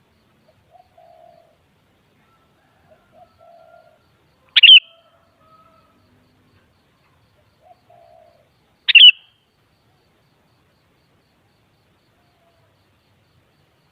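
Sooty-headed bulbul giving two short, loud, sharp calls about four seconds apart, with a few faint low notes in between.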